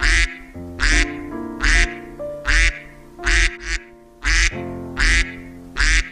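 A duck quacking over and over, about nine loud quacks at an even pace of roughly one a second, over soft background music.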